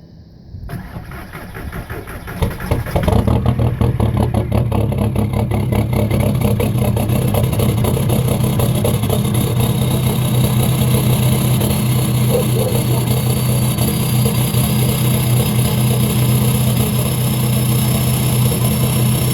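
2004 TDI diesel engine with a 3-inch straight-pipe exhaust, cold-starting. It cranks for about two seconds, catches about three seconds in, then settles into a steady, loud idle.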